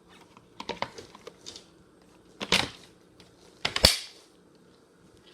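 Plastic parts of a Hoover Air Cordless Lift vacuum being handled: a few light clicks about a second in, then two sharp plastic clicks, the second the loudest, as pieces are snapped together.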